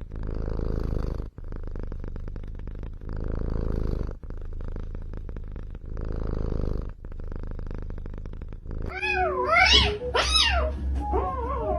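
A cat purring, the purr pulsing with each in- and out-breath about every second and a half; about nine seconds in it gives way to several meows that rise and fall in pitch.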